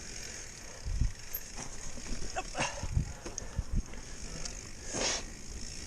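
Mountain bike riding over a rough dirt trail: irregular knocks and rattles from the bike, with brief scrapes about two and a half seconds in and again near the end.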